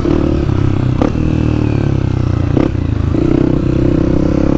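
Dirt bike engine running steadily under way, with two short knocks about one second and two and a half seconds in.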